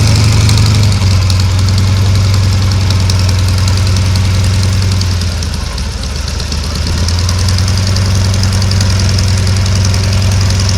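Yakovlev Yak-50's Vedeneyev M-14 nine-cylinder radial engine running with a steady low drone, fading somewhat about halfway through, then coming back up.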